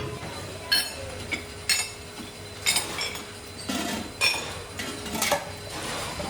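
Hammer blows on sheet metal, about one sharp metallic strike a second, with one duller knock in the middle.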